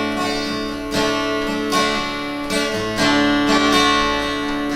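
Acoustic guitar playing a short instrumental passage between sung verses of a folk song, strummed chords on a steady pulse.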